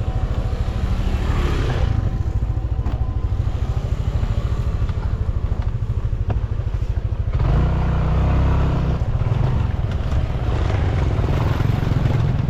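Motorcycle engine running while riding, with wind buffeting an unshielded microphone. The rumble grows louder about seven seconds in.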